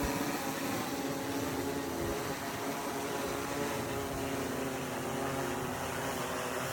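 A small engine running steadily at a constant speed, a continuous even hum.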